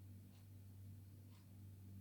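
Near silence: room tone with a steady low hum and a faint soft tick about once a second.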